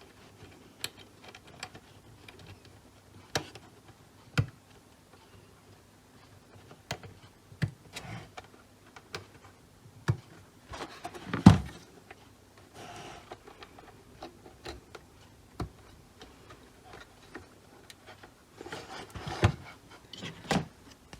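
Scattered clicks and knocks of a Jaguar XK8 instrument cluster's plastic housing and ribbon-cable connectors being handled and fitted back together by hand, with one louder knock about halfway through and a stretch of rustling handling near the end.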